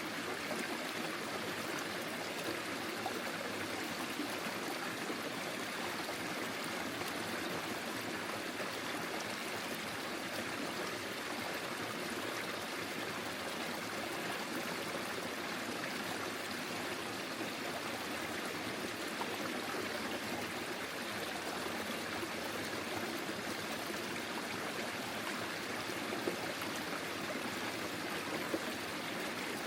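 Small forest stream flowing and babbling steadily over its bed.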